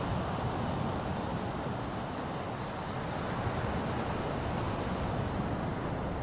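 Ocean surf: a steady, even rush of breaking waves and washing water, with no single crash standing out.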